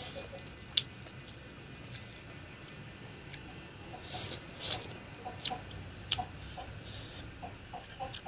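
Close-up eating sounds: wet chewing and lip smacking of a mouthful of rice and fried frog, with a few sharp clicks scattered through.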